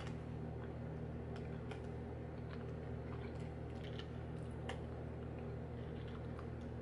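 Faint, scattered mouth clicks of someone chewing a Brookside dark chocolate acai and blueberry candy, over a steady low electrical hum that is the loudest thing throughout.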